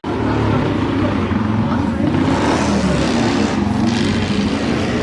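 Classic racing motorcycle engine running loud and steady, its exhaust a dense low beat. The sound cuts in abruptly.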